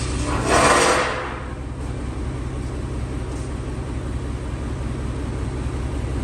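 A vehicle engine running as a steady low rumble, with a loud burst of noise about half a second in that fades away within about a second.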